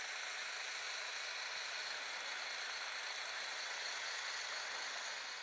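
Faint, steady drone of a distant small engine, a motorized tow sledge running across the ice.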